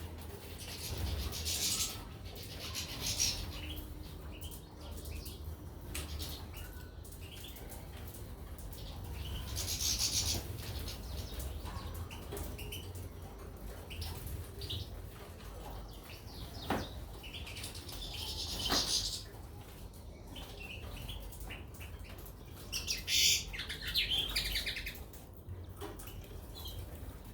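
Caged goldfinches and canaries chirping and twittering in several short bursts, each a second or two long, with a few sharp clicks in between.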